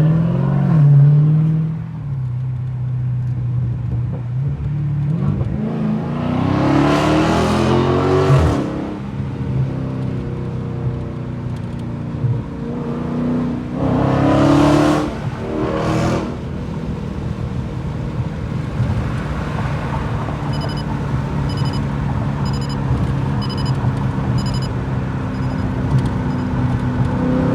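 Straight-piped Dodge Challenger Scat Pack's 6.4-litre HEMI V8 idling, revved up once about five seconds in and twice more in quick bursts near the middle, then settling back to a steady idle. A repeating electronic chime beeps about every 0.7 seconds for several seconds near the end.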